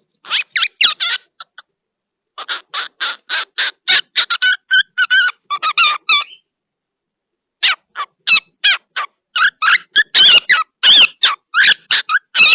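Cockatiel chirping in quick runs of short, repeated calls, three bursts with brief pauses between them.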